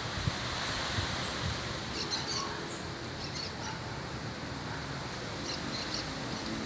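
Birds giving short, high chirps a few times over a steady outdoor background hiss with some low wind rumble.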